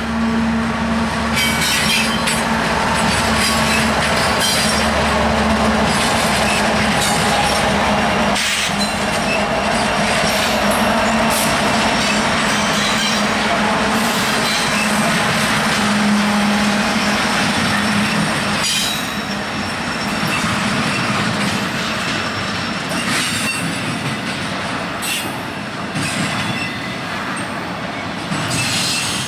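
Union Pacific freight train rolling past at close range: a steady rumble of railcars with wheel squeal and clicking of wheels over rail joints.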